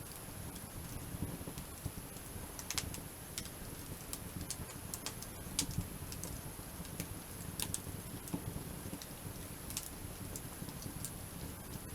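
Wood campfire crackling, with irregular sharp snaps and pops a few times a second over a low steady rumble.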